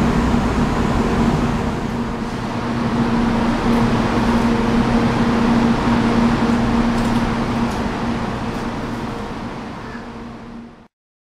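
Running noise of a 700 series 'Rail Star' Shinkansen train heard from inside the passenger car: a steady rumble with a constant hum. It fades over the last few seconds as the train eases off, then cuts off abruptly.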